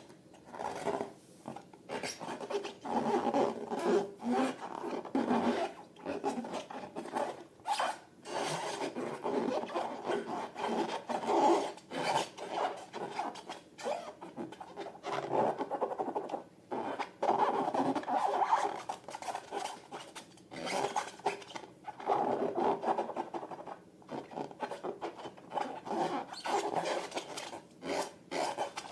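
Glossy slime being mixed and worked, with irregular squishing and rubbing strokes and short pauses between them.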